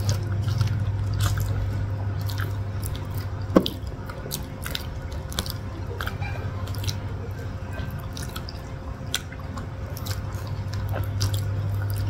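Close-up wet chewing and lip-smacking of two people eating soft, creamy kampung durian flesh by hand: many short, sticky clicks over a steady low hum.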